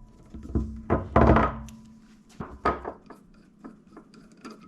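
Tools and metal parts knocking and clunking on a workbench as a motorcycle kickstarter is taken apart: a few separate knocks, the loudest about a second in, then lighter ticks.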